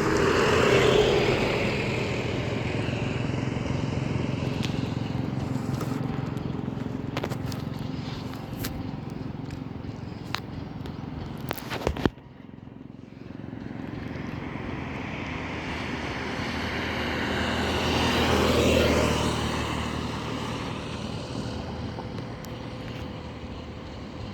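Trucks driving past on a road, engines running with tyre noise. The first fades away, the sound cuts off sharply about halfway through, then another truck approaches, passes at its loudest about three-quarters of the way through, and fades.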